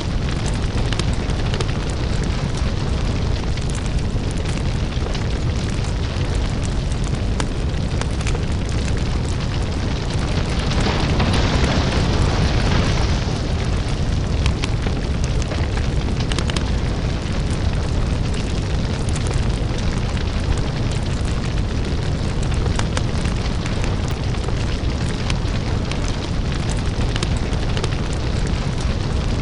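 Crackling lava fire: a deep, steady rumble under dense crackles and pops, swelling louder for a few seconds around the middle.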